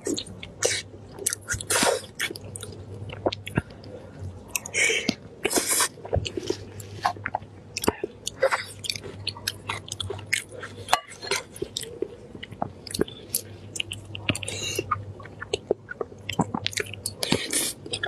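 Close-miked chewing of a mouthful of braised meat in chili oil, with many short wet smacking clicks and a few louder, longer slurping sounds. A steady low hum runs underneath.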